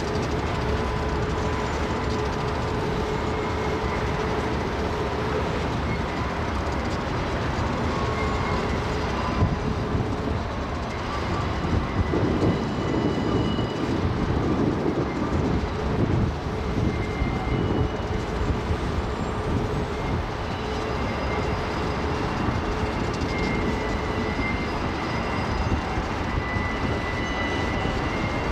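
Freight cars of a long mixed freight train rolling past, a steady rumble of steel wheels on rail. Thin high-pitched wheel squeals come and go, and the sound grows louder for a few seconds about halfway through.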